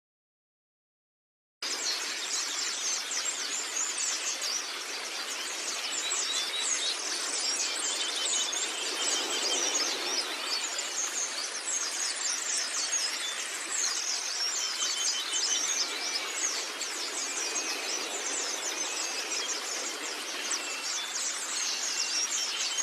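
White-eye (pleci) song: a dense, continuous run of rapid high chirps and trills, starting after about a second and a half of silence.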